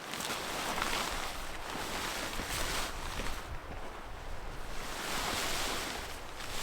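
Strong mountain wind blowing in gusts, a hiss that swells and eases every second or two, with a low rumble underneath.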